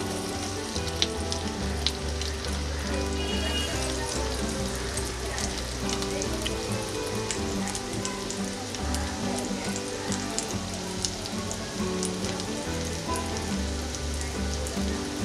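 Breaded soya kababs shallow-frying in hot oil in a nonstick pan: steady sizzling with fine crackles and spits of oil around the patties, as more patties are laid in one by one.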